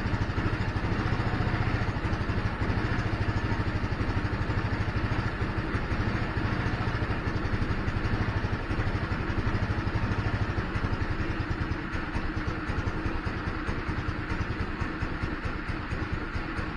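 GY6 150cc scooter engine idling roughly with its RPM struggling, the running note sagging and weakening over the last few seconds as it starts to die out. The owner suspects a clogged carburetor main jet.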